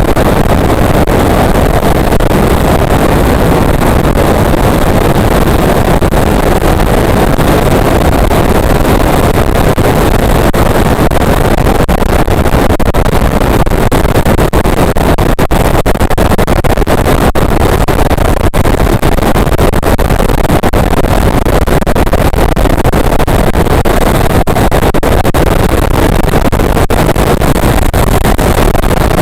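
Motorcycle being ridden at speed, heard from on board: a loud, steady rush of engine and wind noise with no change in pace.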